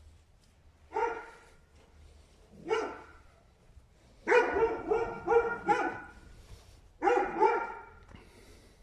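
A dog barking in short bursts: single barks about one and three seconds in, a quick run of four or five in the middle, then two more near the end.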